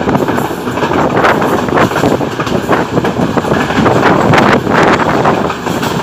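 Passenger train running at speed, its wheels and carriage rattling on the track, with heavy wind buffeting the microphone held out of the carriage window.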